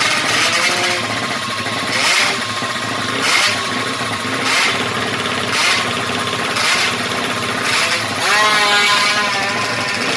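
Racing-tuned, fuel-injected Yamaha MX King motorcycle engine, bored to 200cc, running with short throttle blips about once a second. About eight seconds in, the revs climb in a rising pitch.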